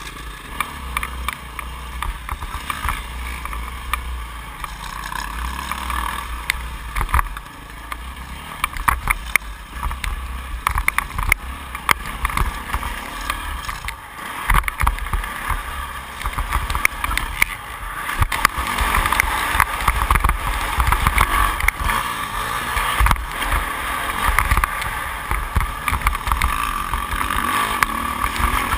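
2008 Yamaha YZ450F four-stroke single-cylinder motocross engine running and revving through a practice lap, heard from an on-board camera. There is heavy wind rumble and frequent short knocks from the bike over the track, and the engine sound grows stronger in the second half.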